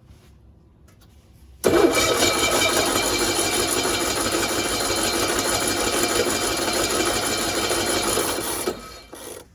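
1965 Cushman Truckster's engine started up and running for about seven seconds, beginning abruptly and then fading out and stopping near the end. The carburetor is still being adjusted and the engine will not yet keep running.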